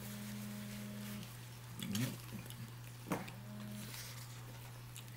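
Quiet eating sounds: chewing of fried chicken with two sharp mouth smacks about two and three seconds in. Underneath there is a steady low hum, and two brief held low tones.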